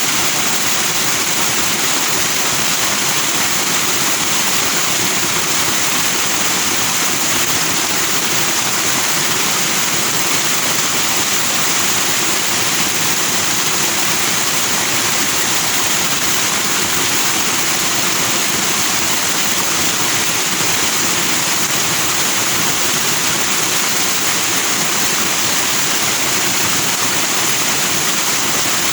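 Forest stream rushing over stones with white foam, a steady, even water rush that stays the same throughout.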